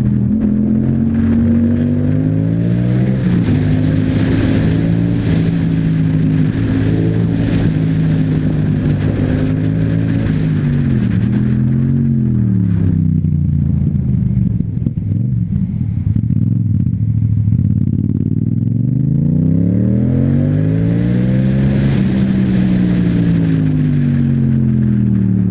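Yamaha MT-07's parallel-twin engine through an Akrapovic exhaust, heard on board while riding. The revs climb in the first few seconds and hold, drop away about twelve seconds in and stay low for several seconds, then climb again from about nineteen seconds and ease off near the end. Wind rushes over the microphone throughout.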